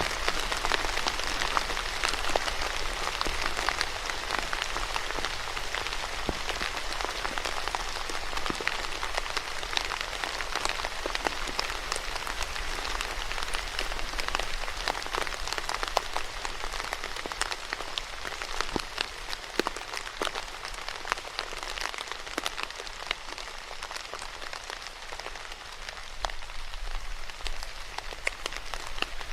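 Steady rain falling, with many close drops pattering and ticking on a hard surface over a constant hiss.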